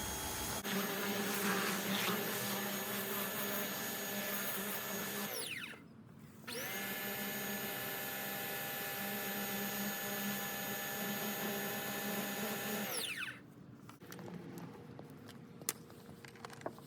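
Electric pressure washer rinsing tires: the motor runs steadily with the water spray, winds down in pitch and stops about five seconds in, starts again a second later, and winds down and stops again near the end.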